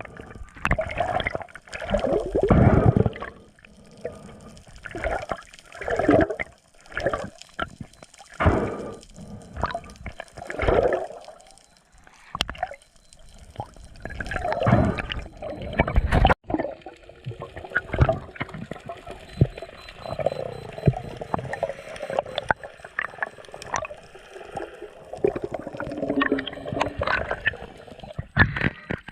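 Water sloshing and gurgling around a camera in the sea, in irregular surges every second or two, with a sharp click and a change in sound about halfway through.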